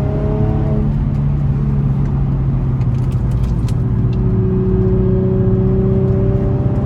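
Infiniti G35's 3.5-litre VQ V6 engine running under load on its stock exhaust and intake. The engine note holds steady and its pitch creeps slowly up through the middle and later part.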